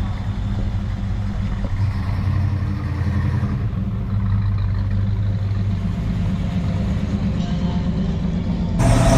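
Car engine idling with a steady low rumble; just before the end a louder, fuller noise starts abruptly.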